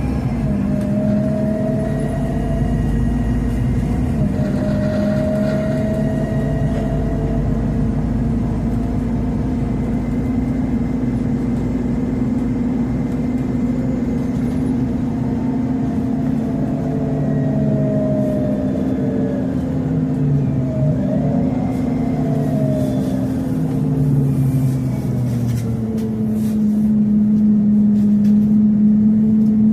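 Scania CN270UB CNG city bus heard from inside while riding: its five-cylinder gas engine and drivetrain running, the pitch rising and falling as the bus speeds up, slows and shifts gear, settling to a steadier tone near the end.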